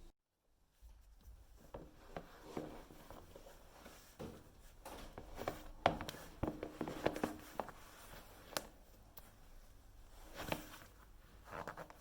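Scattered light clicks, taps and handling noises of objects being moved about, over faint room tone.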